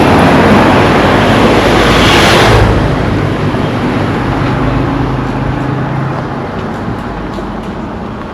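A motor vehicle passing close by: its engine and tyre noise are loud for the first two and a half seconds, then fade steadily as it drives away.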